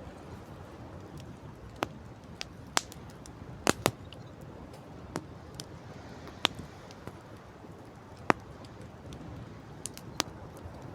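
Wood fire crackling: about ten irregular sharp pops and snaps of burning wood, two of them loudest near the middle, over a steady low background rush.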